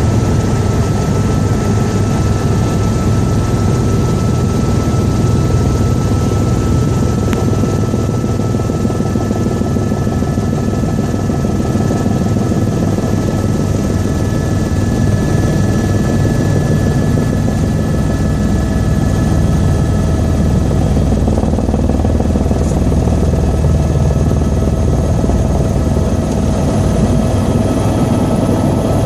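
Helicopter in flight: rotor and turbine engine running steadily, a loud dense low rumble with a few steady whining tones above it. Some of the whining tones rise slightly in pitch over the last several seconds.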